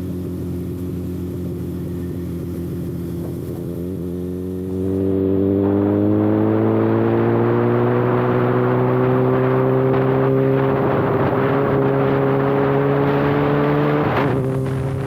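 Kawasaki ZX6R inline-four with no exhaust canister, running at a steady speed, then opening up about five seconds in: it gets louder and its pitch climbs slowly for about nine seconds before dropping abruptly near the end.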